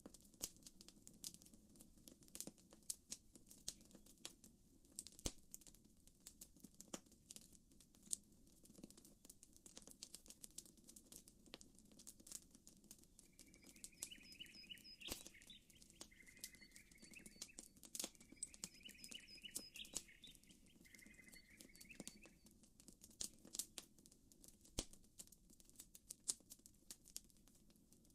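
Wood campfire crackling, with frequent small irregular pops and snaps. About halfway through, a bird calls in four short chirping phrases over roughly eight seconds.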